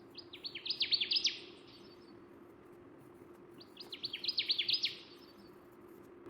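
A bird calling twice: two bursts of rapid, high, downward-sweeping notes, each a little over a second long, the second about three seconds after the first. A faint steady hum runs underneath.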